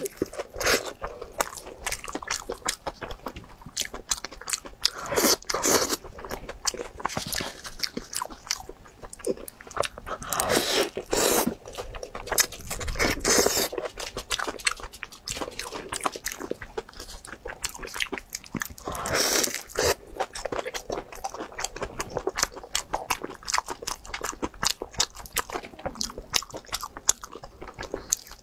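Close-miked crunchy bites and chewing of a pan-fried pastry filled with purple sticky rice: crackling crust and wet chewing clicks throughout, with louder crunchy bites several times.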